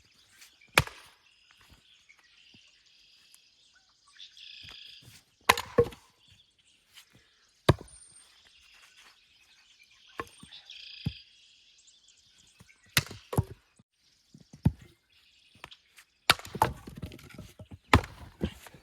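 Firewood being split by hand: about eight sharp blows on wood at irregular spacing, some in quick pairs. Between them a songbird repeats a short song several times.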